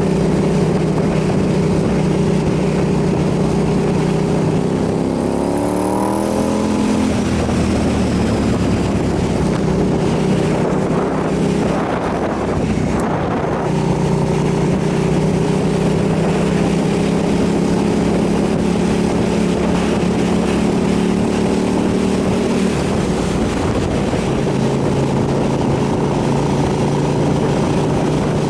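KTM 990 SMR supermoto's V-twin engine running at a steady riding pace, with wind rush over it. The engine note climbs briefly about five seconds in, changes again around twelve seconds in, then holds steady before dropping slightly near the end.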